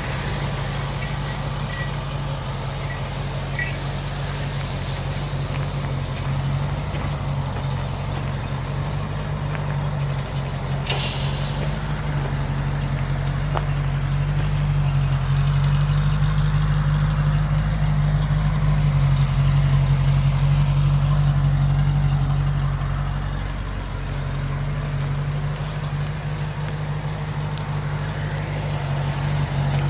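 1966 Ford Mustang convertible's engine idling steadily, with a low hum that swells a little louder for several seconds in the middle.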